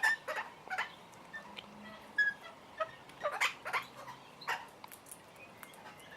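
Birds giving short, scattered chirps and calls, a dozen or so brief notes with irregular gaps.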